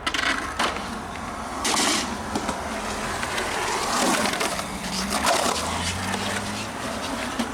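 Skateboard rolling on rough concrete with the wooden deck knocking and scraping: a few sharp knocks among a rough, grinding noise.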